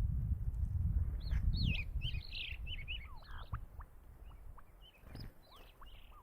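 A bird chirping: a quick run of short, sliding chirps starting about a second in, then scattered single chirps. A low rumbling noise underneath fades away after the first couple of seconds.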